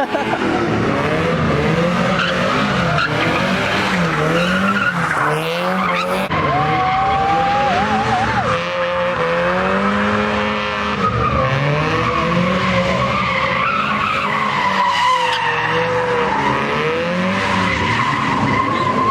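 A car doing a burnout or donuts: its tires squeal continuously while the engine's revs rise and fall over and over.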